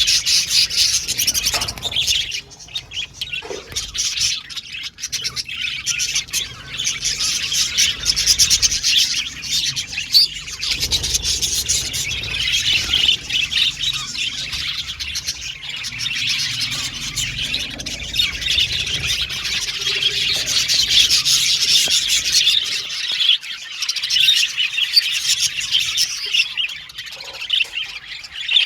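A group of budgerigars chirping and warbling in a continuous, dense chatter of short, high chirps.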